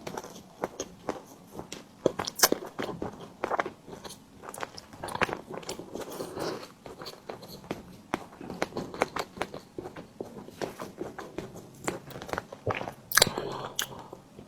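Close-miked eating of a tiger skin dessert: bites and chewing heard as a steady run of short sharp mouth clicks, with louder bites about two seconds in and near the end.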